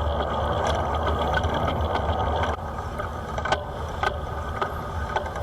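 Steady wind and road noise heard while riding a bicycle in traffic, dropping a little in loudness about halfway through, with a few light clicks after that.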